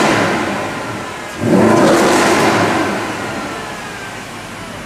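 Mercedes-Benz SLS AMG V8 engines revving in an underground car park. One sharp rev comes about a second and a half in, and its pitch falls away slowly as it echoes off the concrete.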